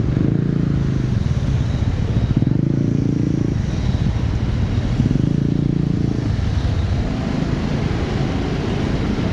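Motorcycle engine running, its note swelling and easing a few times, over steady road noise.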